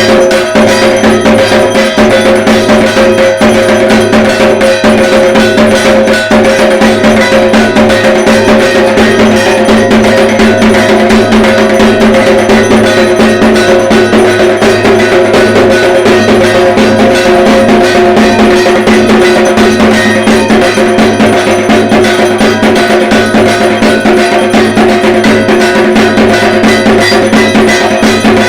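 Dhak, the Bengali barrel drum, beaten with sticks in a fast, unbroken rhythm, with a steady metallic ringing over the drumming.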